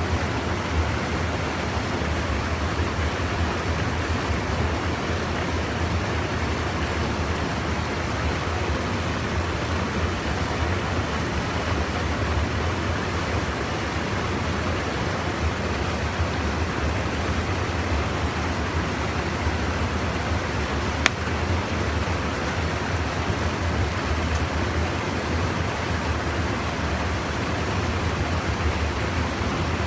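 Steady rush of river water pouring over a small weir (sabo check dam), an even unbroken noise. A single sharp click about 21 seconds in.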